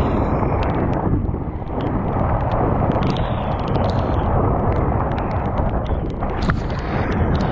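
Mountain bike ride down a jump line: a steady rush of wind buffeting the camera microphone, with many short clicks and rattles from the bike throughout.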